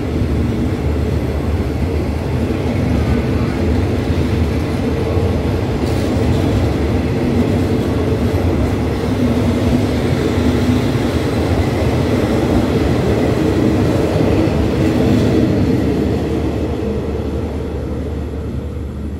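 Thai passenger train pulling out of a station, its carriages rolling past with a steady rumble of wheels on rail that fades over the last few seconds as the train leaves.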